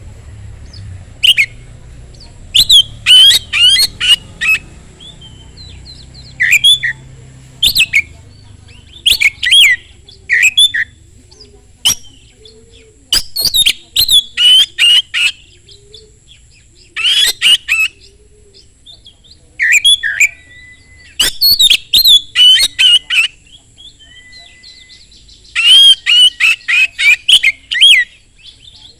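Oriental magpie-robin (kacer) in full, vigorous song: loud bouts of rapid, varied whistled and chattering phrases, each a second or two long, broken by short pauses.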